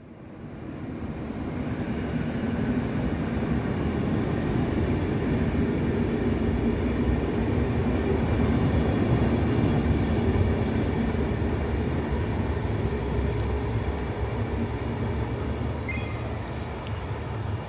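Double-deck Trenitalia Rock regional electric train running past along the platform: a steady rumble of wheels on rail and traction equipment.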